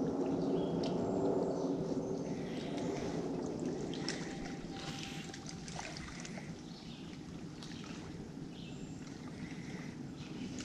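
Water sloshing and trickling against a kayak hull, with scattered small splashes and clicks, fading after the first few seconds.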